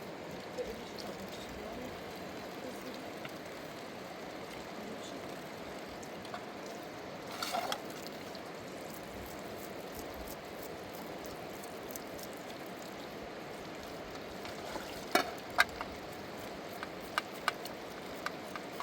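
Steady rushing of flowing river water. A couple of sharp knocks come about two thirds of the way through, and lighter clicks follow near the end.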